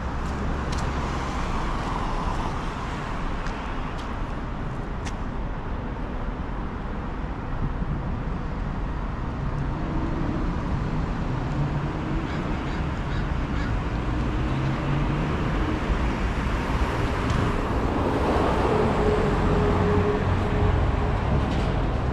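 City street traffic: cars and buses passing with a steady rumble of engines and tyres, growing a little louder in the second half.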